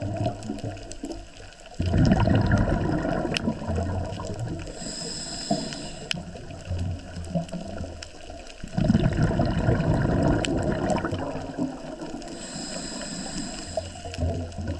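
Scuba diver breathing through a regulator, heard underwater: two loud surges of exhaled bubbles about seven seconds apart, each lasting a couple of seconds, with quieter regulator breathing between them.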